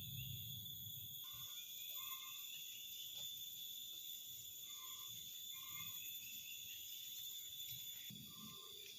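Insects shrilling in several steady high tones, with short, evenly pitched calls coming in pairs a few times.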